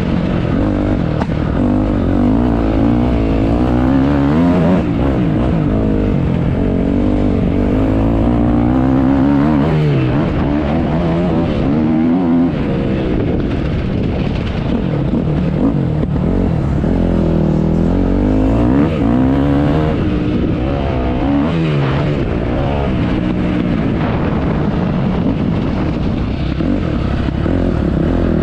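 Motocross dirt bike engine revving up and down again and again, its pitch rising and falling with the throttle.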